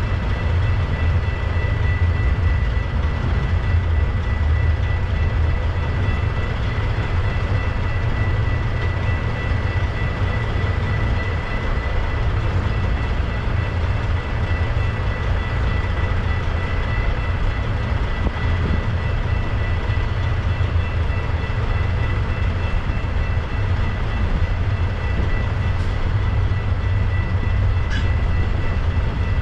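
Double-stack intermodal container cars of a freight train rolling slowly past at restricted speed over a temporarily repaired level crossing, a steady low rumble of wheels and cars. A steady high-pitched tone sounds over it throughout.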